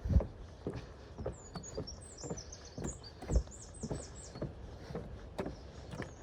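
Footsteps of a person walking at a steady pace, about two steps a second. A small bird chirps in a quick high-pitched run from about one and a half to three and a half seconds in.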